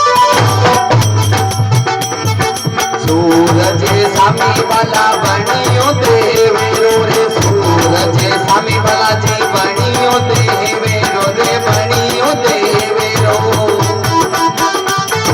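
Instrumental interlude of a Rajasthani folk devotional bhajan: a melody line over fast, dense percussion with a steady beat and a pulsing bass.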